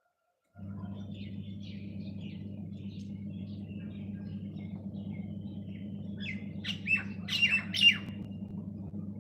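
Small birds chirping, with a burst of louder squawking calls about six to eight seconds in, over a steady low hum.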